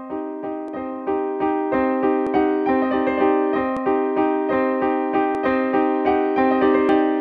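Piano music: a steady, even run of notes, with a light sharp click about every second and a half.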